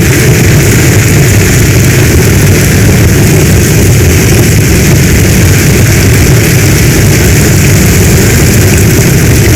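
Heavy storm rain pouring without a break: a dense, even hiss over a strong, steady low rumble.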